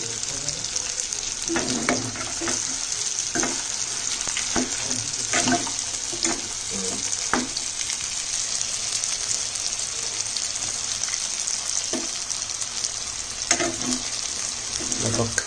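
Pork curry frying and bubbling in oil in a metal pan, a steady high sizzle, with a metal spoon scraping and clinking against the pan about a dozen times as it is stirred.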